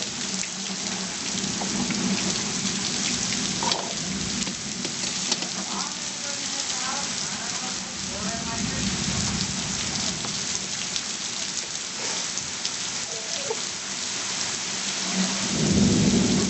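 Heavy rain falling steadily through a thunderstorm, with rolls of thunder rumbling under it; the loudest roll swells up near the end.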